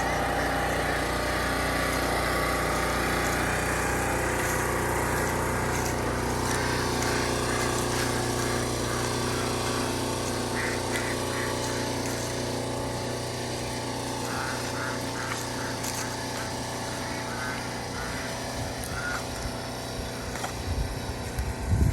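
An engine running steadily, easing off somewhat partway through, with a few louder knocks near the end.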